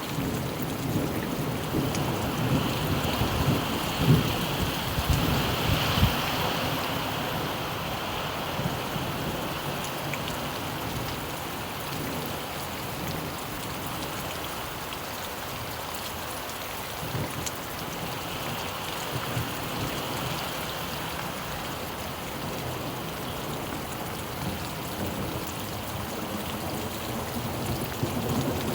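Steady rain falling, with low rolls of thunder in the first several seconds and again near the end.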